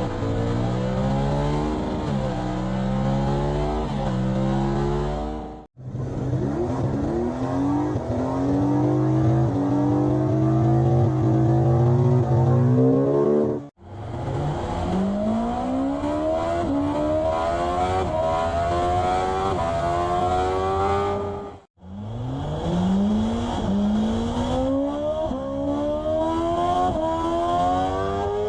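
BMW naked motorcycles, one after another, each accelerating hard through the gears: the engine note climbs, drops back at each upshift and climbs again. It cuts off abruptly to the next bike's run about every eight seconds.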